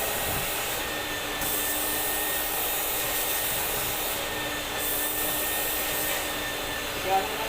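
Vacuum cleaner motor running steadily with a constant hum, its high hiss coming and going several times. A brief louder sound near the end.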